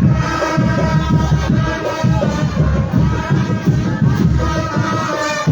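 Marching drum band playing: rapid drum beats under a sustained melody line.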